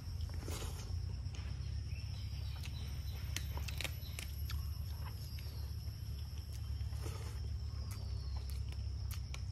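Mouth sounds of eating by hand: scattered wet chewing and lip-smacking clicks. A steady high-pitched insect drone and a low rumble run underneath.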